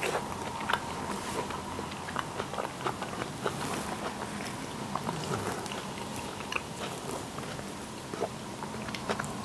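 Close chewing and small mouth clicks of a person eating bacon-wrapped baked pumpkin, with soft clicks of the food and flatbread being picked apart and dipped in sauce. A faint steady hum sits underneath.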